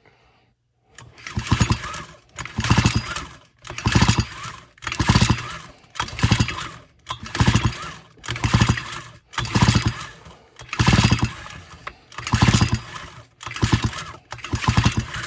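Stihl FS 45 trimmer's small two-stroke engine cranked over by its recoil pull-starter, about a dozen quick pulls one after another, without the engine firing. It is being pulled over to check for spark from a suspect ignition coil.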